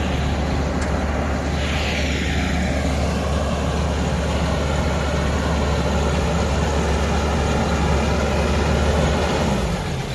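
Self-propelled garlic combine harvester running steadily, its engine hum and harvesting machinery holding an even level.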